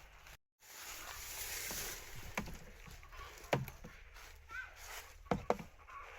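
Handling noise in water: rustling and splashing with several sharp knocks, after a brief cut to silence under a second in.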